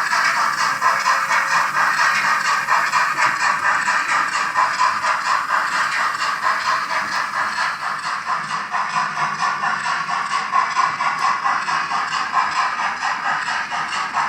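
H0-scale Roco BR 01 model steam locomotive with its sound decoder running under power: a rapid, even beat of steam chuffs from its speaker, with the clatter of the locomotive and coaches rolling over the model track.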